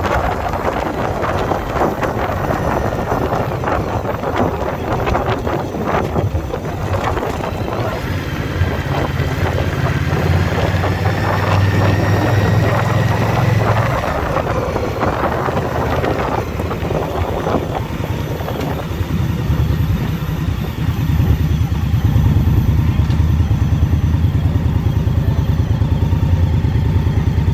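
Indian Scout Bobber's V-twin engine running under way, with wind rushing over the microphone. About two-thirds of the way in, the engine's low pulsing beat gets louder.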